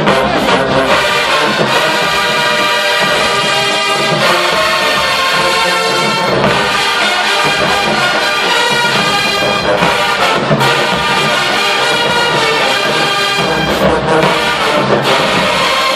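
HBCU marching band playing, its brass section (trombones and trumpets) loud and full, with drums underneath.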